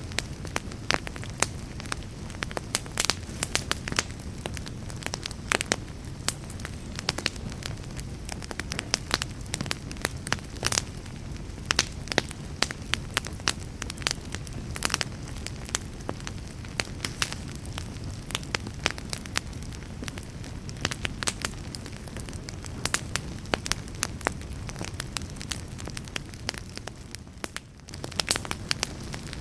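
Campfire crackling, with frequent sharp pops and snaps over a steady low rumble of the flames. The sound briefly drops away about two seconds before the end, then comes back.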